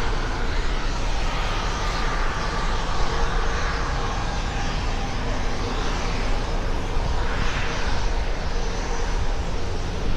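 Aircraft engines running steadily, a continuous roar with a faint steady whine through it.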